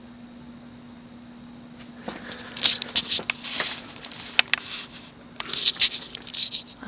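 Hunter Studio Series ceiling fan's full-size 52-inch motor running with a steady hum, which is loud for a Hunter. From about two seconds in there are sharp clicks and rustling noises over the hum, loudest near the middle.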